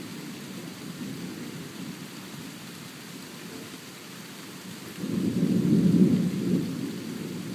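Thunder rumbling low, swelling into a louder roll about five seconds in, over the steady hiss of rain.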